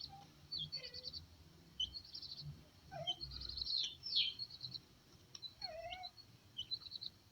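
Small caged birds chirping and chattering: rapid high trills and short falling calls throughout, with a couple of lower calls partway through.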